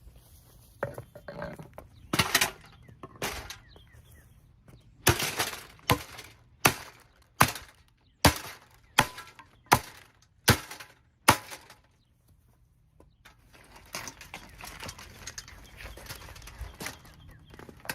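Holmes box fan being smashed, its plastic cracking and breaking under the blows. A few scattered knocks come first, then a run of about nine sharp blows a little under a second apart. After a short pause comes a rough, crunching noise near the end.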